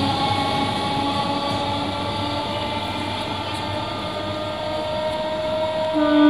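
Electric multiple-unit local train pulling away from the station. Its wheels rumble on the track, with several steady whining tones over the rumble. Near the end a louder steady tone comes in.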